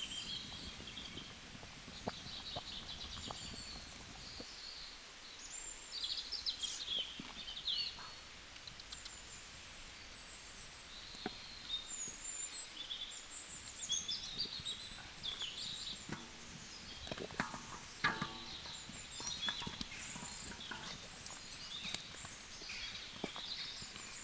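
Birds chirping and calling on and off throughout, with a few scattered clicks and knocks from handling.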